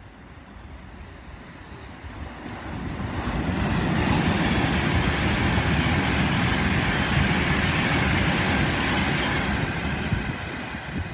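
Class 390 Pendolino electric train passing at speed: a rush of wheel and air noise that builds over a couple of seconds, holds loud for several seconds, then starts to fade near the end.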